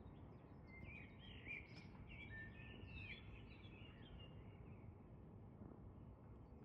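Near silence: faint outdoor ambience with a small bird chirping and twittering for a few seconds starting about a second in, over a low steady background hiss.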